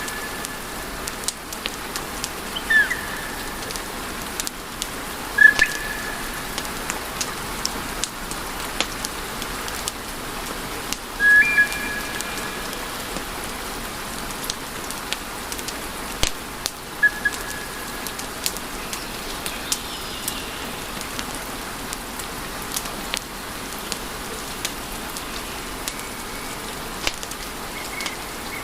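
Wood fire in a fireplace crackling, with a steady hiss and many small sharp pops. A few short high whistles sound now and then, the clearest about 3, 5.5, 11 and 17 seconds in.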